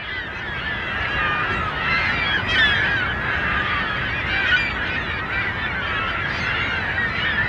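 A large flock of geese honking, a dense, really loud din of many overlapping calls with no break.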